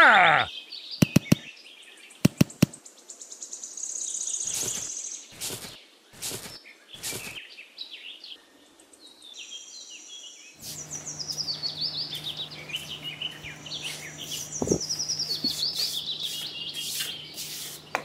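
Small birds chirping again and again. A few sharp clicks come in the first few seconds, and a low steady hum joins after about ten seconds.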